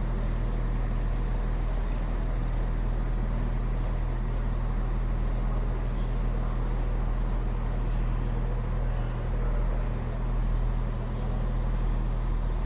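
Diesel train engine idling: a steady, low, even hum that swells slightly about nine seconds in.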